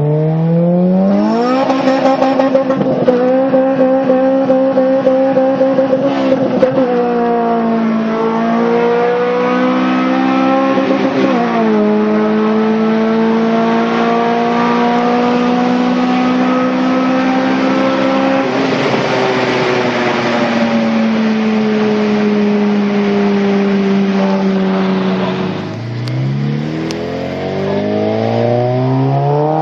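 Honda K20 inline-four engine driven hard at high revs: its pitch climbs sharply at the start and holds high for several seconds, then drops and climbs again with gear changes, eases down, and rises in several quick revs near the end.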